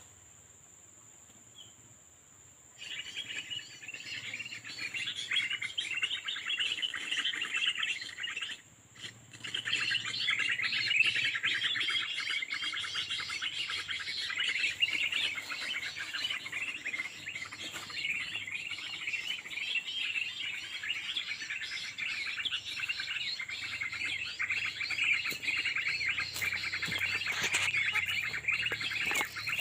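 Small birds chirping in a dense, rapid, continuous chatter that starts abruptly about three seconds in and breaks off briefly near nine seconds.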